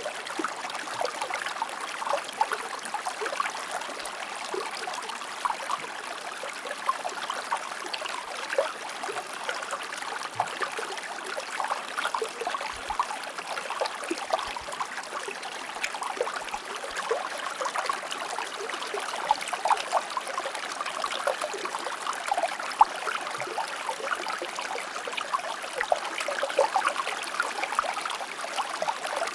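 Shallow stream running steadily, water trickling and splashing over stones in a continuous gurgling wash.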